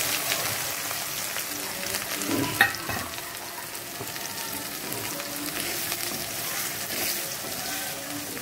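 Coarsely ground ginger and garlic sizzling hard in hot sesame oil with spluttering mustard seeds and urad dal, being stirred. The sizzle is loudest at the start and eases off gradually, with one short knock about two and a half seconds in.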